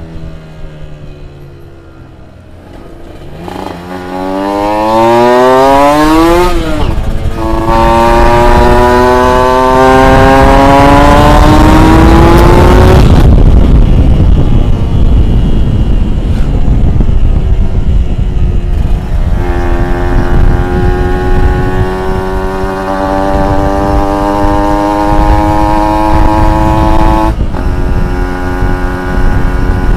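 Two-stroke motorcycle engine under hard acceleration, its pitch climbing steeply, dropping sharply, then climbing again in long pulls, as when shifting up through the gears. Between the pulls there is a rough, noisy stretch with no clear pitch.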